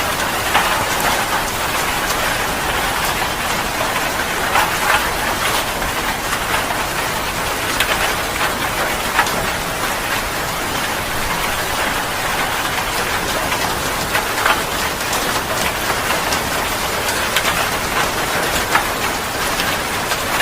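Heavy rain falling steadily, with frequent sharp ticks of single drops striking a surface.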